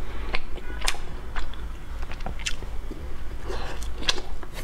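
Biting into and chewing a soft whole-wheat bread roll close to a clip-on microphone, with sharp wet mouth clicks and lip smacks at irregular intervals.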